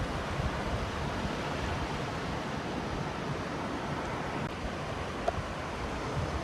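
Ocean surf washing steadily: a continuous, even rush of waves with a low rumble underneath.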